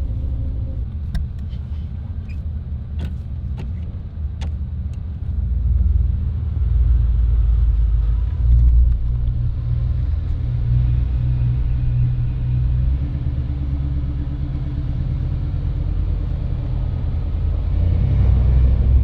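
Old step-side pickup truck's engine running and pulling the truck along, heard from the cab; the low rumble gets louder about five seconds in as it picks up speed. A few sharp clicks sound in the first few seconds.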